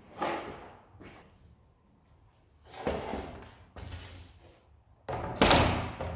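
A few separate knocks and thuds, each dying away quickly, the loudest one near the end.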